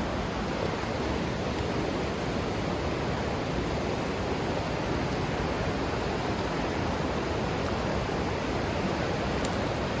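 Steady rushing of flowing creek water over rocks and cascades, with one light knock near the end.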